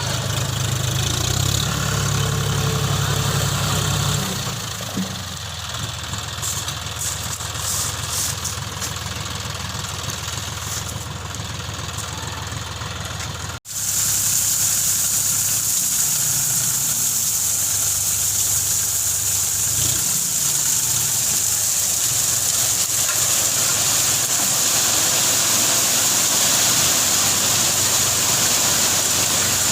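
John Deere 5045 D tractor's three-cylinder diesel engine running, louder for the first four seconds and then settling. About 14 s in the sound cuts out for a moment and comes back as a steadier engine noise with a strong hiss.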